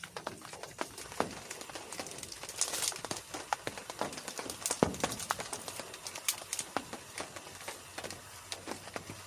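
Raindrops striking a surface close by as irregular sharp taps, with a few louder single drops standing out.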